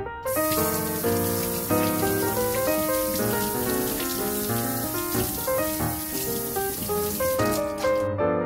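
Water running steadily from a kitchen tap, starting just after the beginning and cutting off near the end, over background piano music.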